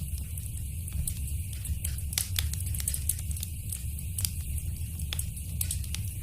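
Wood fire burning in a fireplace, a steady low rumble with irregular sharp crackles and pops, one louder pop a little past two seconds in.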